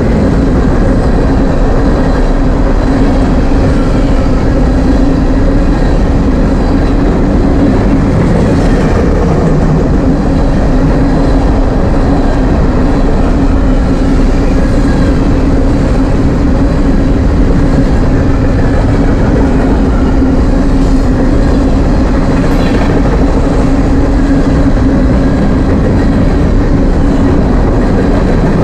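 Steady, loud rumble of a freight train's covered hopper cars rolling past close by, steel wheels running on the rails, with a constant hum underneath.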